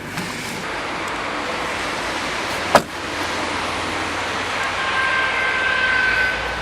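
A single sharp thud about three seconds in, typical of the TagAZ Aquila's rear door being shut, against a steady rushing background noise. A faint high tone sounds near the end.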